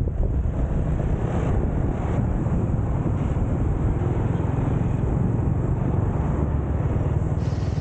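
Riding noise from a motorcycle: steady wind rushing over the microphone with a low rumble of engine and road noise underneath.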